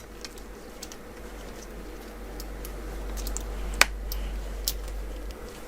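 Scattered small clicks and taps of laptop parts and tools being handled during disassembly, with one sharp click a bit under four seconds in and another about a second later.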